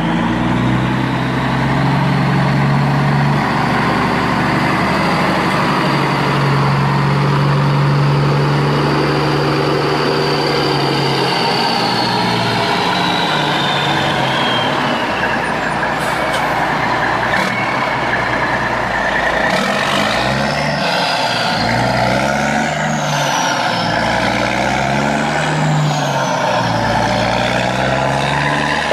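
A vehicle's motor running steadily, with a whine that slides down and then rises and falls several times in the second half.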